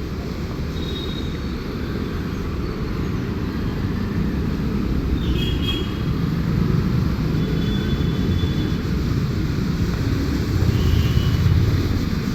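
Road traffic: a steady low rumble of passing vehicles that swells about halfway through and again near the end, with a few faint high chirps over it.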